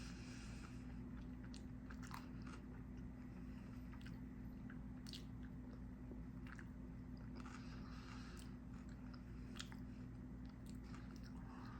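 Close chewing and biting of a beef burrito in a keto wrap, with soft wet mouth clicks scattered throughout, over a steady low hum.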